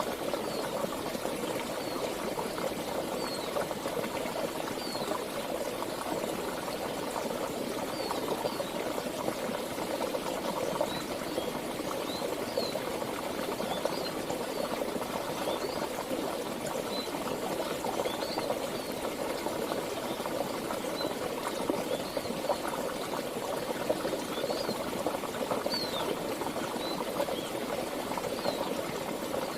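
Steady rush and burble of a flowing stream, with brief high chirps scattered over it.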